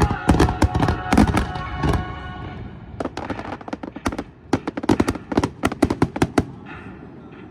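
Fireworks going off in rapid volleys of sharp bangs and cracks, one cluster near the start and a denser one from about three seconds in, then dying away.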